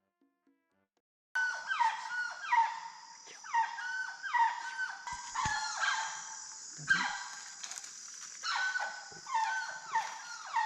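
Spider monkeys calling after about a second of silence: a run of overlapping calls, each falling in pitch, over a steady high buzz of rainforest insects.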